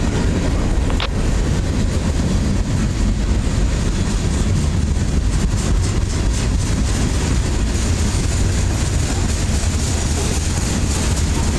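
Freight train cars rolling past close by: a steady, loud rumble of steel wheels on rail.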